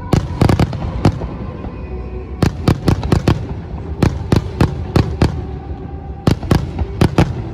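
Fireworks going off in quick volleys of sharp bangs, four bunches one after another, with music playing underneath.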